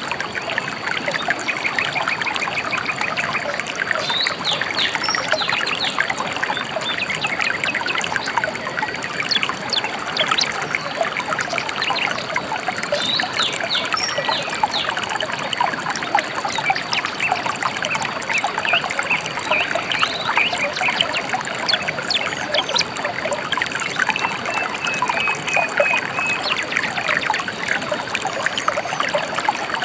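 A shallow river trickling and babbling steadily. Scattered bird chirps sound over it, including a short run of repeated high notes near the end.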